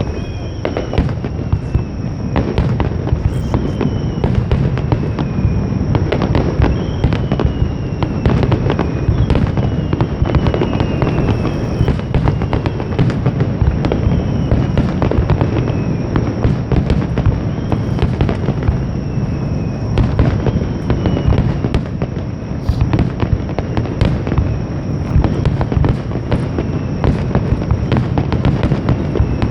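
Fireworks display at its height: a dense, unbroken barrage of shell bursts and crackling over a continuous low rumble of booms, with no pause.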